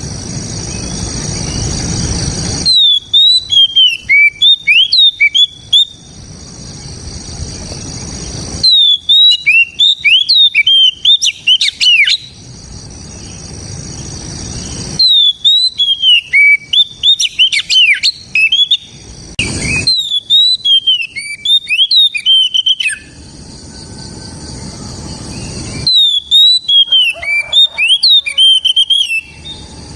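Oriental magpie-robin singing its loud, full song in five phrases of about three seconds each, rapid whistled notes sweeping up and down. A steady hiss fills the short gaps between phrases.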